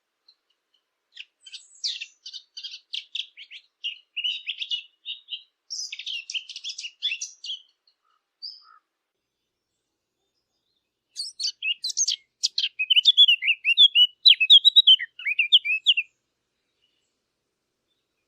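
A Sylvia warbler, the bird known in Arabic as the fig bird (dakhal), singing two fast, varied warbling song phrases: one from about a second in to about seven and a half seconds, and a louder one from about eleven to sixteen seconds, with a short single note between them.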